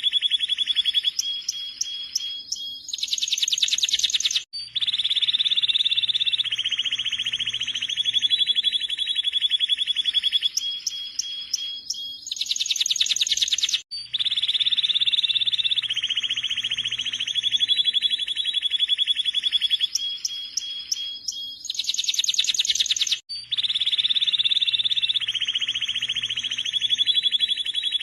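Domestic canary singing: long, fast buzzing trills with higher piping notes. The same song sequence repeats about every nine seconds.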